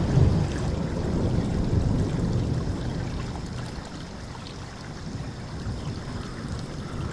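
Thunderstorm ambience over a flowing river: a low thunder rumble fades away over the first few seconds, leaving a steady rush of rain and running water.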